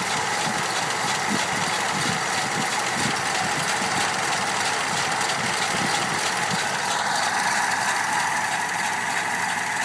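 1987 Dodge W150's 5.2L V8 engine running with a rhythmic ticking, which the owners take for a bad lifter.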